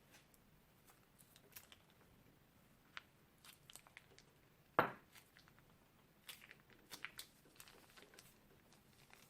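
Crunchy slime being squeezed and handled: scattered faint crackles and pops, with one sharper crack about five seconds in.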